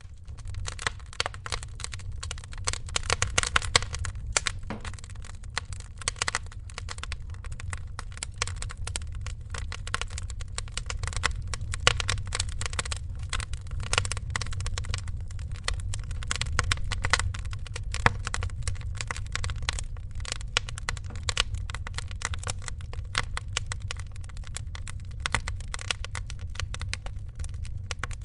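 Wood fire in a fireplace crackling continuously, with dense irregular snaps and a few louder pops over a low, steady rumble.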